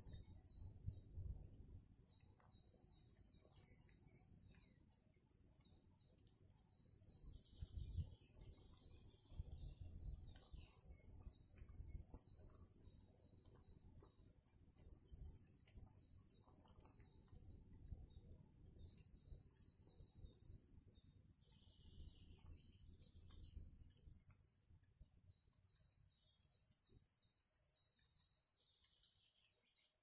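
Faint high-pitched birdsong in a conifer forest: long runs of rapid, repeated chirping notes that pause now and then. An uneven low rumble lies beneath and fades near the end.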